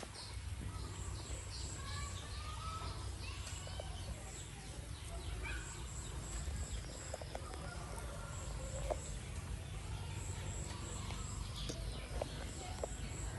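Outdoor rural ambience: small birds chirping faintly and a high, repeated chirping in short groups over a steady low rumble.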